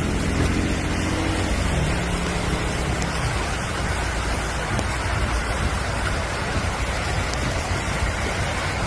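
Heavy rain pouring down in a steady dense hiss. A passing car's engine fades away over the first couple of seconds.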